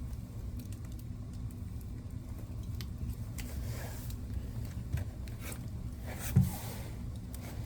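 Wood fire burning in a fireplace: a steady low rumble with scattered small crackles and one louder pop about six seconds in.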